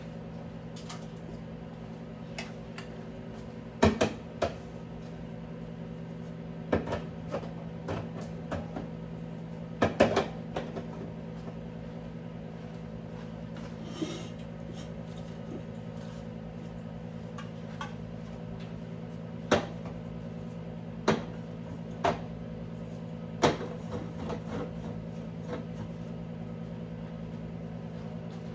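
Household objects being knocked and set down, a dozen or so sharp clatters coming in clusters, over a steady low electrical hum.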